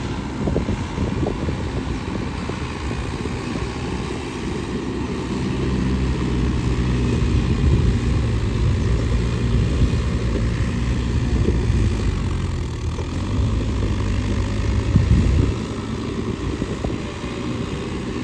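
Swaraj tractor's diesel engine running hard. It gets louder for most of the middle, then drops back suddenly near the end.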